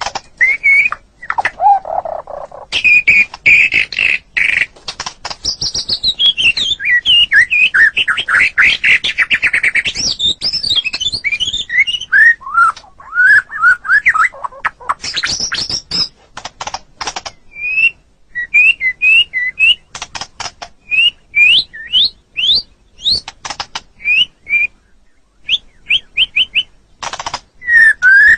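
White-rumped shama (murai batu) singing a long, varied song in bursts: clear whistles and quick upward-sweeping notes mixed with rapid clicking, chattering runs, with short pauses between phrases.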